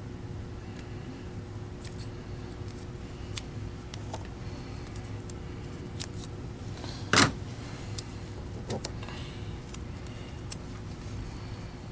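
Hand work with electrical tape on wire nuts: scattered small clicks and crinkles, and one short, loud sound about seven seconds in, over a low steady hum.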